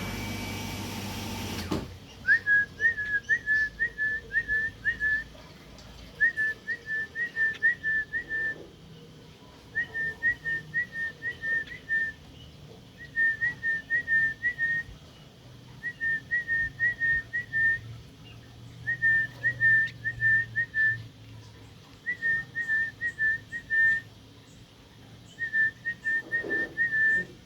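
A small bird calling in repeated bouts of about seven quick, high chirps on nearly the same note, one bout every three to four seconds. A rush of noise fills the first two seconds.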